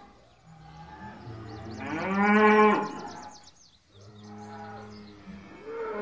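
Cattle mooing: a long moo that swells to loud about two seconds in, then a second, quieter moo, with another starting near the end.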